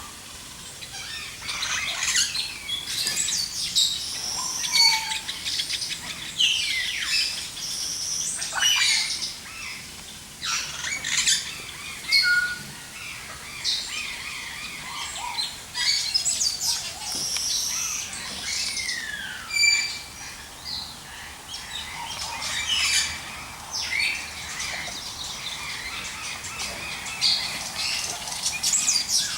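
Many birds chirping and whistling together: a dense mix of short chirps, tweets and quick falling whistles, with the occasional harsher squawk.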